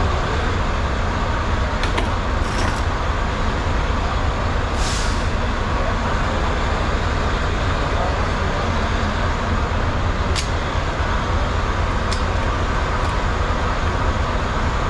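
Semi-truck's diesel engine running steadily at idle, with a short hiss about five seconds in and a few sharp clicks.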